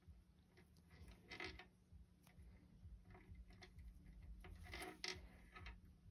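Faint rustling and soft scraping of a crochet hook pulling worsted-weight yarn through stitches, a few quiet scrapes over a low steady hum.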